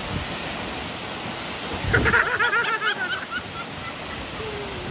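Steady roar of a powerful waterfall in full flow. About two seconds in, a person gives a loud, wavering yell that lasts about a second and a half.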